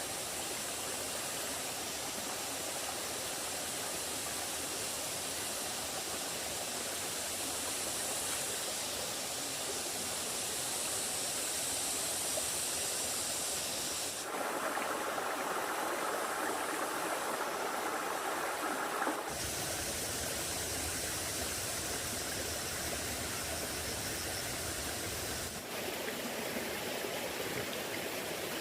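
Steady rushing noise with no distinct events. It shifts abruptly in tone about halfway through, again a few seconds later, and once more near the end.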